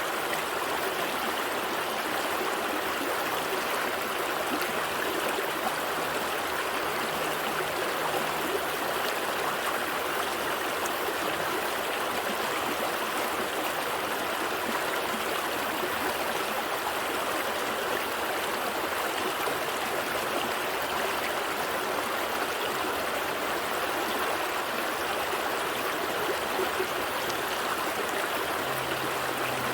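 A gentle stream flowing and trickling over rocks, a steady even rush of water.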